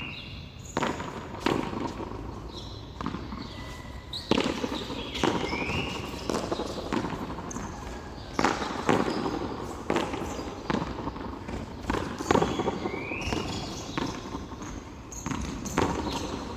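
Frontón handball rally: the ball is struck by hand and smacks off the wall and floor in a series of sharp knocks at uneven intervals, roughly one a second.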